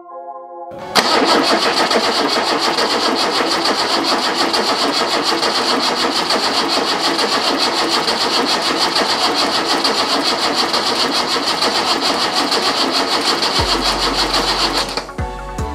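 Datsun 280Z's L28 straight-six engine being cranked over on its starter for its first start after assembly: a loud, steady, rapid cranking that starts suddenly about a second in and lasts about fourteen seconds.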